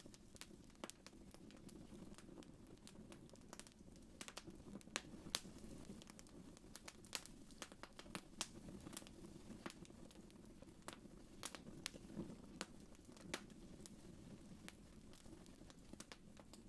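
Fireplace fire crackling faintly: irregular sharp pops and snaps, scattered unevenly, over a soft steady low rumble.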